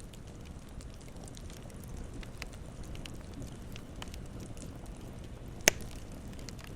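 Campfire burning, with a steady low rumble of the flames and scattered small crackles. One loud, sharp pop sounds near the end.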